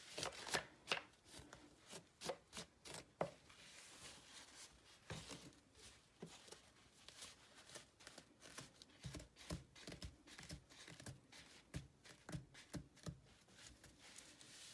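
Short, scratchy strokes of a comb pulled through a vintage Barbie doll's tangled hair, repeated irregularly about once or twice a second, working the knots out.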